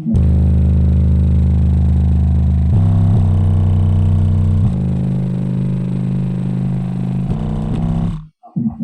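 Car audio system playing bass-heavy music very loudly, with long held low bass notes that change pitch a few times. The sound cuts out briefly near the end.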